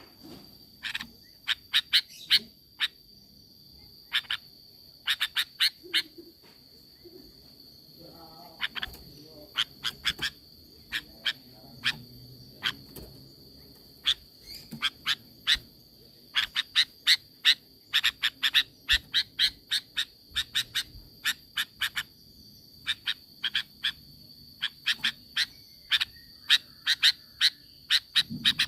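Sooty-headed bulbul (kutilang) calling in quick clusters of short, sharp notes, one burst after another, over a steady high whine.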